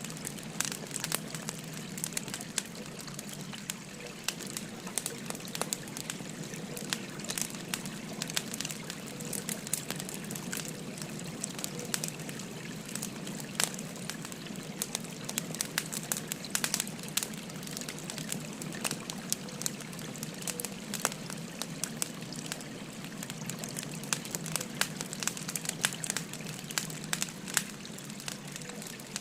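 Burning firewood crackling and popping with many small irregular snaps, over a steady murmur of flowing river water.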